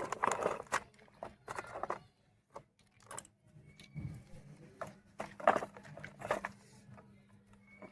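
Small plastic toy-truck wheels being handled and fitted: irregular light clicks, taps and rustles, with a faint steady hum coming in about halfway through.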